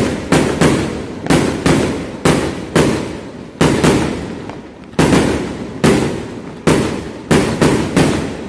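Fireworks going off in a rapid, irregular string of loud bangs, about one every half second, each trailing off in a rolling echo before the next.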